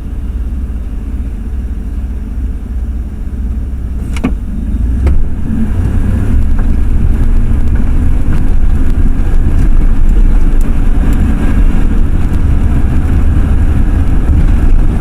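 Low rumble of a Ford F-350's 460 cubic-inch big-block V8 and its tyres, heard from inside the cab. It grows louder about five seconds in as the truck gets under way and then holds steady. A short sharp sound comes just before it swells.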